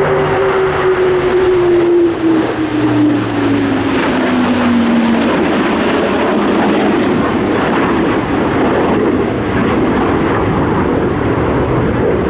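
Military aircraft flying low past the crowd: a loud rush of engine noise, with a tone that falls steadily in pitch over the first five seconds as it goes by.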